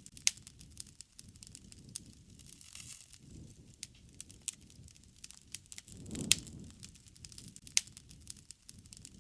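Wood campfire crackling: irregular sharp pops and snaps over a low rush of burning, which swells a little past the middle around the loudest pop.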